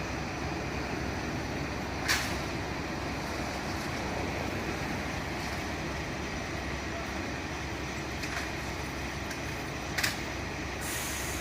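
A large vehicle's engine running steadily, with two sharp knocks, one about two seconds in and one near the end, and a short hiss just after the second.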